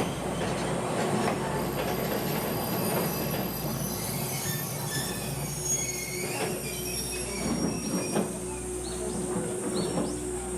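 Kominato Railway Satoyama Torokko trolley train running, heard on board: a steady rumble of wheels on track with thin, high wheel squeals and scattered clicks, and a steady hum that comes in about four seconds in.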